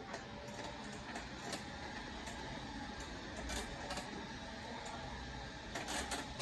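Store background noise: a steady low hum with scattered light clicks and rattles, a small cluster of them near the end.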